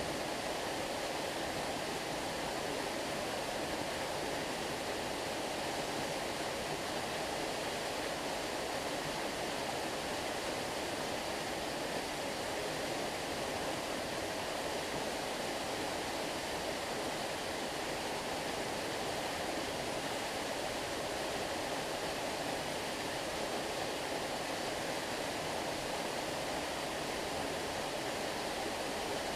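Stream water flowing steadily, an even, unbroken rush of water.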